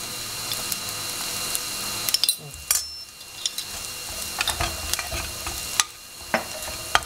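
Onions and spice powders frying in oil in an aluminium pressure cooker, sizzling steadily. In the second half a steel spoon stirs the mixture, scraping and clinking against the pan several times.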